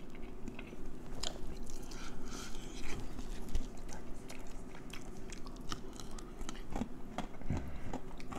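A person biting and chewing crispy fried chicken close to the microphone, with many small irregular crunches and wet mouth clicks.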